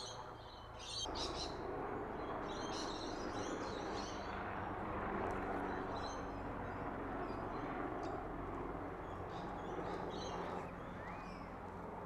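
Birds chirping in short, scattered calls, with a whistled call near the end, over a steady background rush that comes up about a second in.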